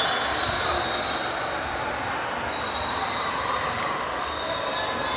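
Court sounds of an indoor volleyball game in a gym hall: a few ball hits and short high squeaks, most clearly about two and a half seconds in, over steady hall noise.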